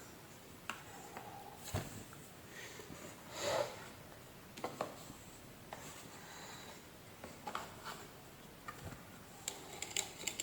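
Scattered light clicks and taps of small parts being handled, with a short scrape about three and a half seconds in and a quick run of sharp clicks near the end.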